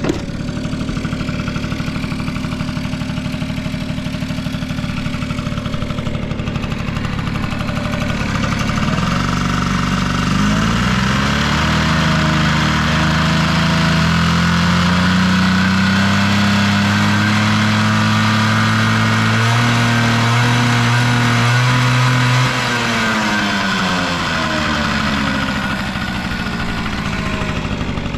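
Honda Squash (AB11) 50cc scooter engine idling, then revved up about ten seconds in and held at a higher speed for about twelve seconds before dropping back to idle. It runs smoothly with no abnormal engine noise.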